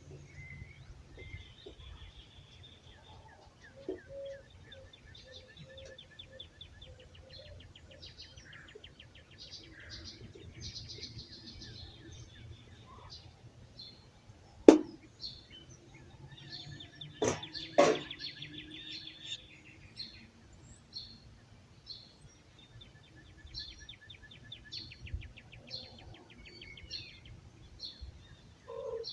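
Songbirds singing in a dawn chorus: rapid trills and repeated high chip notes from several birds. Three sharp clicks or knocks stand out, one about halfway through and two close together a few seconds later, over a faint steady low rumble.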